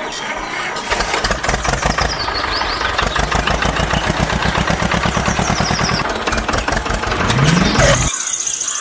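Engine sound running with a fast, even chugging beat, which cuts off abruptly about eight seconds in, leaving a brief high whine.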